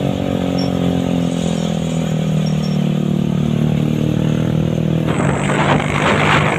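Truck engine running steadily, its pitch dipping slightly in the first seconds. About five seconds in, a loud rushing noise joins it.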